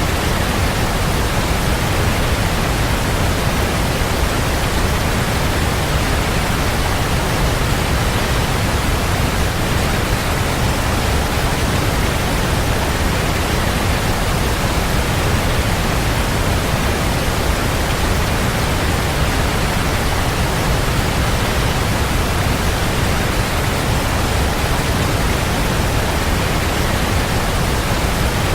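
Waterfall: a strong, steady rush of falling water, heaviest in the low end and unchanging throughout.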